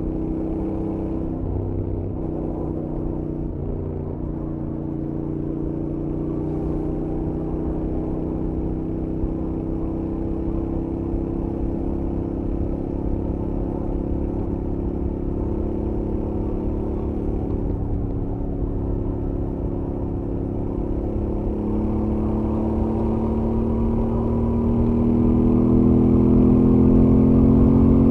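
Royal Enfield Interceptor 650's 648 cc parallel-twin engine through its stock exhaust, running steadily at highway speed. In the last several seconds it rises in pitch and gets louder as the bike accelerates.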